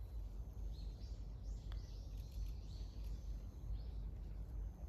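Small birds calling in quick, repeated high chirps that rise and fall, over a steady low wind rumble on the microphone, with a single faint tap near two seconds in.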